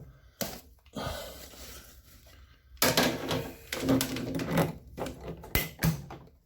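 Irregular clicks, knocks and scraping of washing-machine parts being handled and forced into place, with several sharp knocks in the second half.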